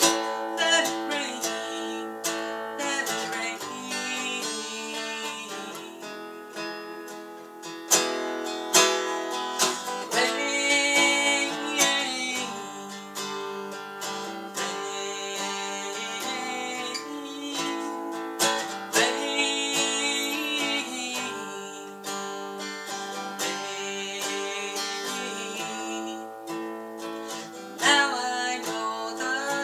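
Acoustic guitar playing an instrumental passage between sung verses, with plucked and strummed chords and melody notes.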